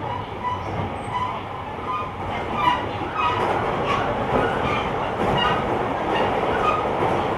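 A JR Kyushu 885 series limited express electric train running, heard from the deck between cars, with a steady rumble and wheels clicking over rail joints.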